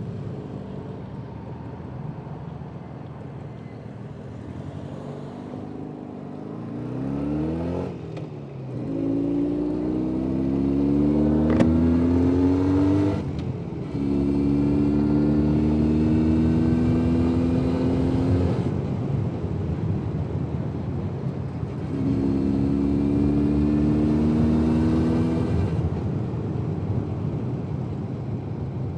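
Jawa 350 type 638 two-stroke twin-cylinder motorcycle engine, ridden under way. It runs low at first, then pitches up under acceleration, drops at a gear change and pulls up again. It eases off about two-thirds of the way through, picks up once more, then settles back near the end.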